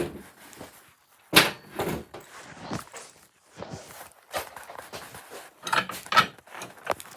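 A handful of irregular knocks and bangs, the loudest about a second and a half in, with smaller clunks scattered after it, like a door or things being handled and set down.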